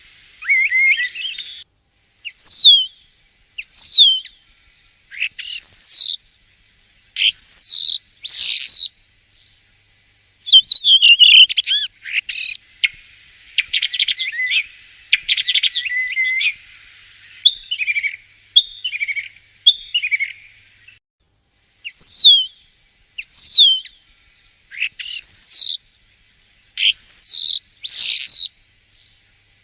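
Common starling singing: a run of separate phrases made of clear falling whistles, mixed with long stretches of fast, chattering warble and rattles about halfway through.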